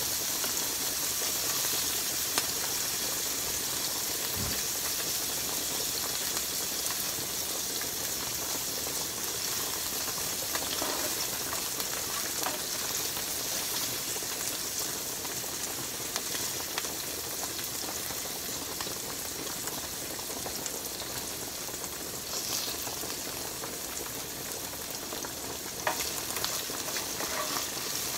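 Diced vegetables and onion sizzling steadily in a hot frying pan as they are stirred with a plastic spoon, with a few light clicks and scrapes of the spoon against the pan.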